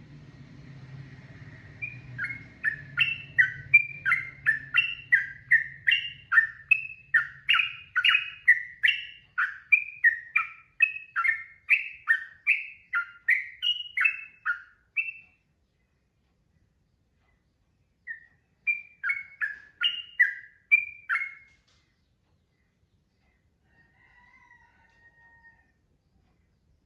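Trucukan (yellow-vented bulbul) singing a long, fast run of loud, bubbling notes, about two to three a second. After a pause it gives a second, shorter run, then a faint whistle near the end.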